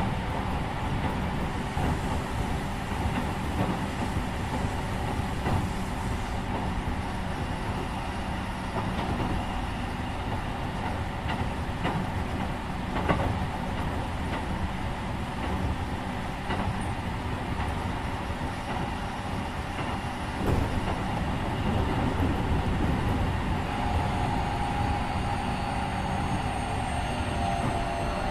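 Keikyu 1500 series electric train heard from inside a motor car, running steadily with wheel-on-rail noise and occasional clicks over rail joints. Near the end the whine of its Mitsubishi IGBT-VVVF inverter and traction motors sets in and falls in pitch as the train slows.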